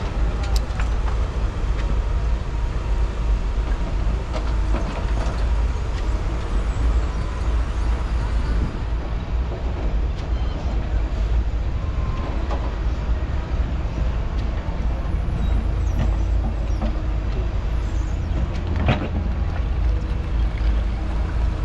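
Heavy diesel construction vehicles running, a steady low rumble with a few brief knocks.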